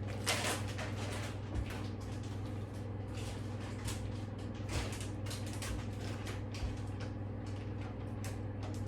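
Steady low hum with scattered light clicks and knocks of kitchenware being handled.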